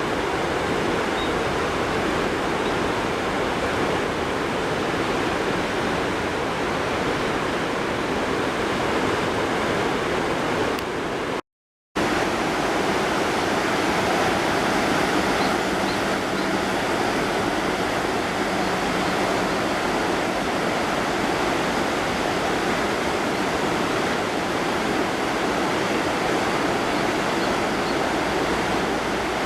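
River water rushing steadily, broken by a half-second gap of silence about a third of the way in.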